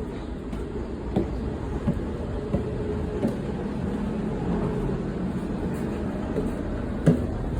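Sydney Trains double-deck suburban carriage running between stations, heard from inside: a steady rumble of wheels on track with a faint steady tone, broken by a few short, sharp knocks.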